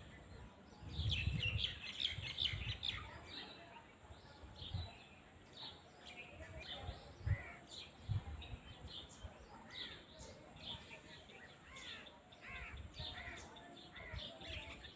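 Small birds chirping over and over in a mix of short, arched calls, with low uneven rumbles, strongest a second or so in.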